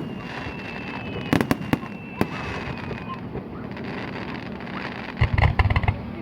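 Aerial fireworks bursting: a few sharp bangs about a second and a half in, then a rapid cluster of loud booming and crackling bursts near the end.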